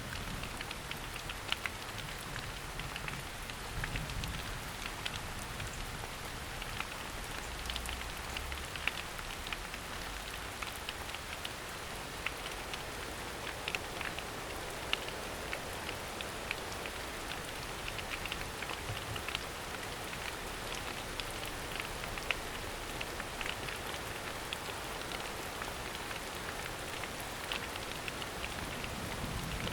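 Steady rain falling through a forest, with many sharp, irregular drips of drops striking leaves over an even hiss.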